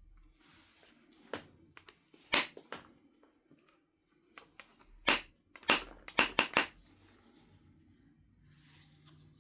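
Knapping of a Knife River flint biface: sharp, clinking strikes of the knapping tool against the flint as flakes come off. The strikes come in two short bursts, a few clicks about two seconds in and a quicker run of four or five near the middle.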